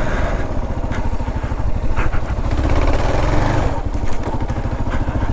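Kawasaki KLR 650's single-cylinder engine running under load through mud, the revs rising and falling with the throttle about halfway through.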